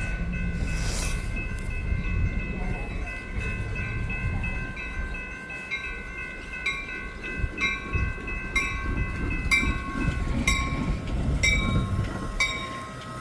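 A train rumbling through the station, with steady high-pitched ringing tones over it. About halfway through, regular sharp metallic strikes begin, roughly one a second.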